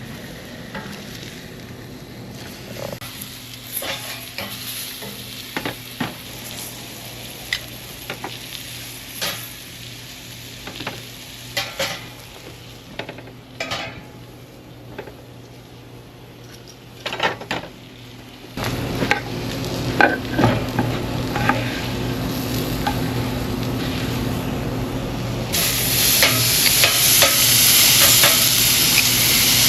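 Food sizzling on a hot grill grate and griddle, with scattered clicks and scrapes of metal utensils. The sizzle jumps much louder about two-thirds of the way through and louder again near the end.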